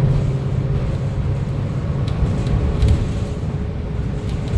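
Interior of a Gillig BRT CNG transit bus under way: a steady low rumble of the natural-gas engine and road noise, with a few light rattles around the middle.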